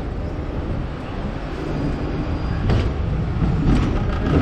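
Hong Kong double-decker electric tram running on its rails: a steady low rumble with a couple of short sharp clicks about three seconds in.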